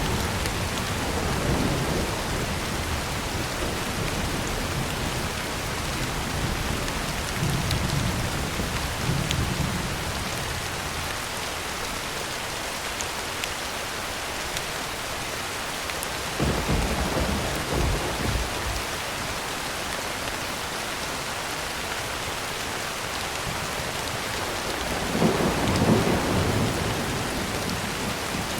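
Heavy rain falling steadily on a tin roof, with several low rolls of distant thunder; the strongest rumble comes near the end.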